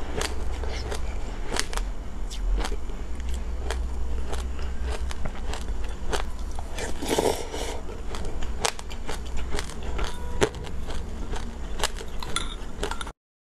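Close-miked crunchy chewing of a mouthful of raw mixed seeds such as sesame, with many sharp crackles and clicks over a steady low hum. It cuts off abruptly just before the end.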